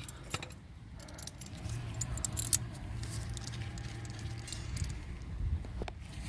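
Irregular light metallic clinks and rattles of hand tools working the rear brake caliper bolts loose, over a low steady hum.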